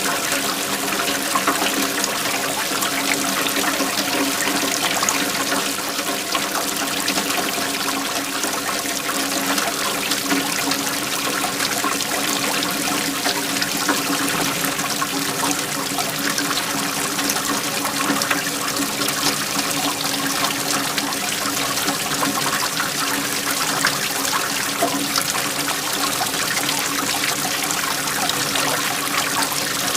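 Waterfall pouring steadily, a continuous rushing splash of falling water.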